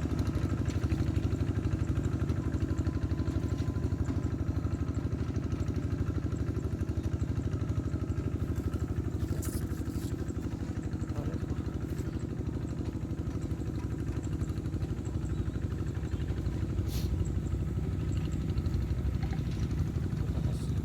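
Two-wheel hand tractor's single-cylinder diesel engine chugging steadily with an even, rapid beat while it plows a wet rice paddy. A few short clicks occur about halfway through and again later.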